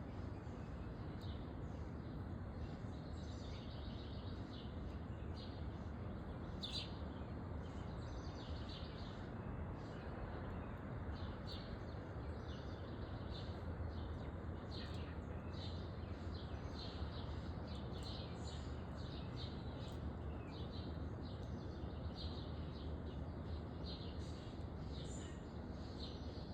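Birds chirping, many short high chirps scattered throughout, over a steady low rumble of outdoor background noise.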